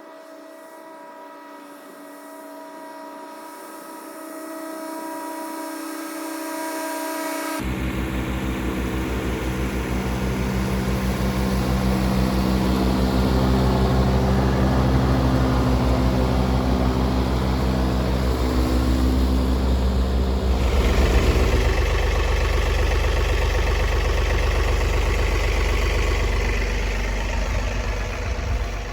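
John Deere 3039R compact tractor's diesel engine running under load while mowing, with the 72-inch mid-mount deck's blades cutting. It grows louder through the stretch, with a sudden deepening and filling-in of the sound about a third of the way in.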